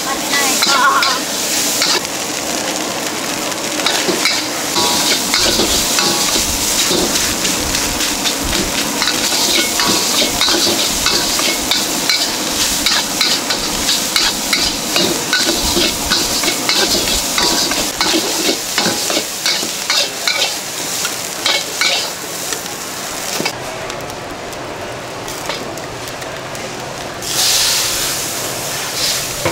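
Food being stir-fried at a hawker stall: hot oil sizzling under a steady stream of quick scrapes and clatters from stirring in the pan. A louder surge of sizzle comes near the end.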